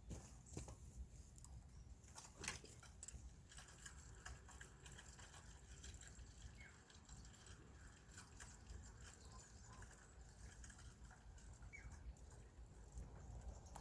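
Near silence: quiet outdoor ambience with a low rumble, a few scattered light ticks and two faint brief chirps.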